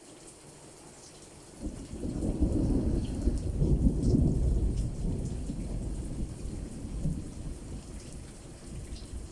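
Rain falling steadily with scattered drop taps. About a second and a half in, a low rumble of thunder sets in, loudest around four seconds, then slowly dies away.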